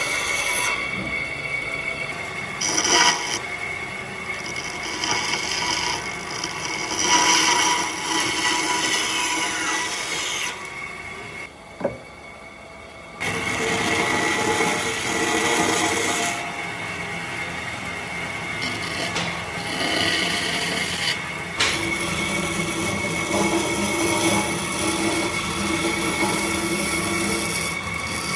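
Power tool working wood, running steadily with a high whine, with a short quieter gap about twelve seconds in.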